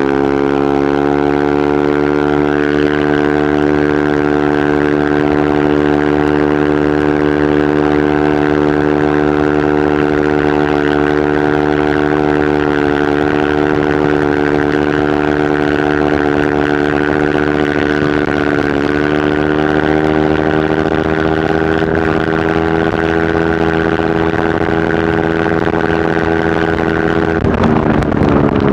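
Yamaha NMAX 155 scooter's single-cylinder four-stroke engine through a VMAX Onyx aftermarket muffler, held at a steady, fairly high engine speed for most of the time. The pitch rises a little at first, dips briefly partway through, and drops near the end as the throttle eases off.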